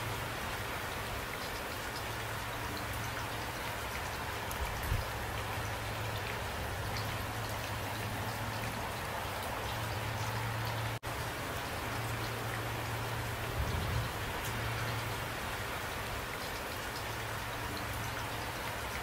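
Steady rain falling, with scattered individual drops pattering close by. The sound cuts out for an instant about eleven seconds in.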